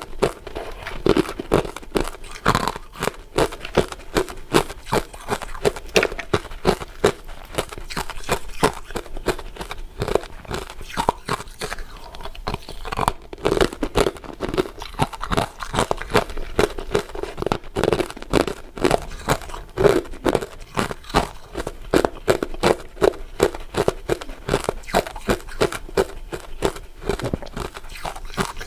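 Crystal ice dessert pieces being bitten and chewed close to the microphone: crisp, sharp crunches coming a few times a second, with a brief pause about halfway.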